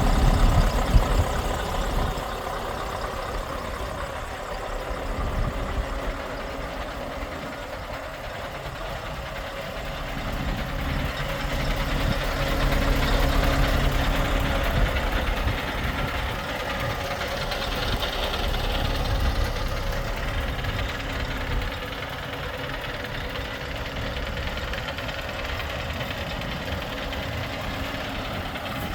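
Scania R520 truck's V8 diesel engine running at idle, steady, growing louder for a few seconds around the middle.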